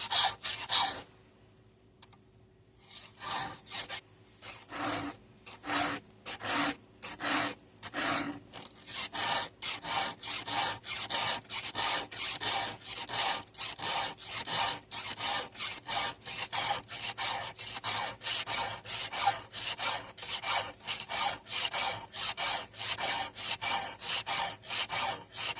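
Hand file stroking across the teeth of a chainsaw chain, a quick even rasp of short strokes. The strokes pause briefly about a second in, then resume and run on at a steady fast rhythm.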